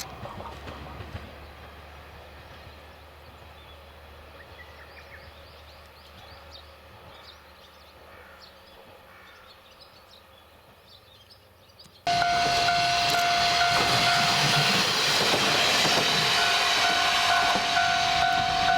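JR Shikoku KiHa 32 diesel railcar: a quiet stretch with a faint low rumble, then an abrupt switch about twelve seconds in to loud, steady train noise with a constant whine.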